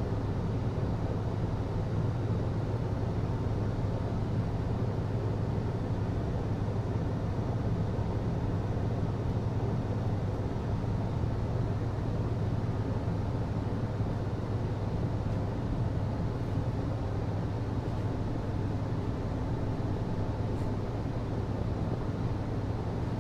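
HVAC system running: a steady low hum with an even rushing noise over it, unchanging throughout.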